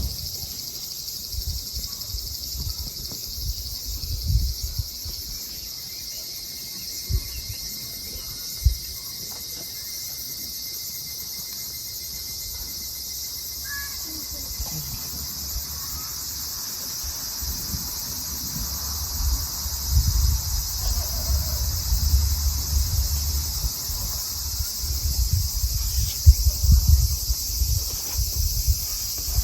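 Steady chorus of crickets and other night insects. Beneath it is an irregular low rumble, louder in the second half, with a few short soft thumps in the first ten seconds.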